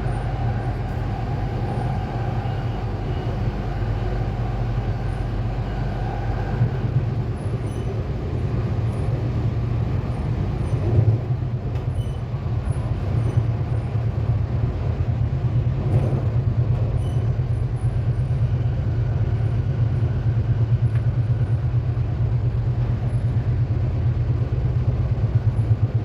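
Sydney Metro driverless train running along the track, heard from inside the carriage: a steady low rumble, with a faint motor whine that fades out about seven seconds in.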